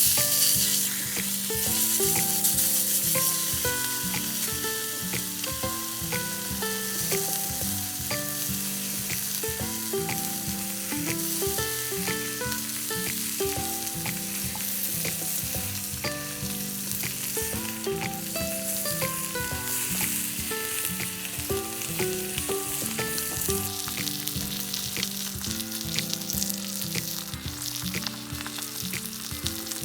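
Food sizzling and frying in a pan, a steady crackling hiss, under background music with a stepping melody.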